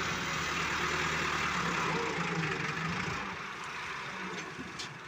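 Tractor engine running steadily, growing a little quieter near the end.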